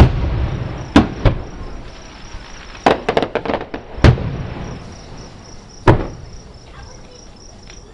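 Fireworks shells bursting about a mile away: separate sharp bangs at uneven intervals, with a quick run of crackling pops about three seconds in. Crickets chirp steadily underneath.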